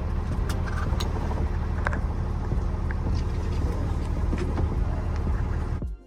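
A 28 ft box truck's engine running steadily at a stop, heard from inside the cab as a low rumble with a few light clicks. It cuts off abruptly near the end.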